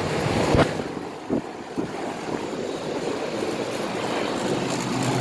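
Outdoor central air conditioner condensing units running, their fans blowing out hot air in a steady rush, with wind on the microphone and a couple of knocks early on. A steady low compressor hum comes in near the end.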